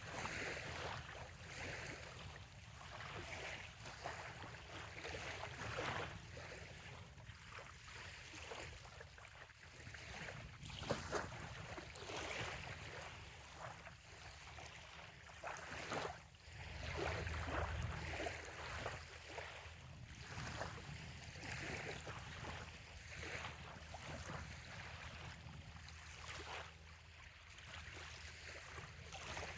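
Small bay waves lapping on a sandy shoreline in soft surges every second or two, over a low steady rumble that swells for a few seconds past the middle.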